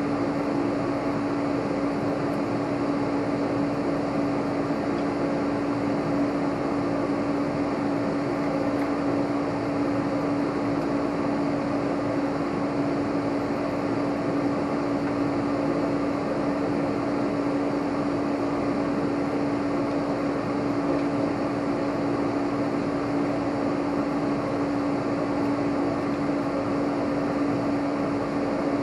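Steady mechanical hum with one constant low tone under an even hiss.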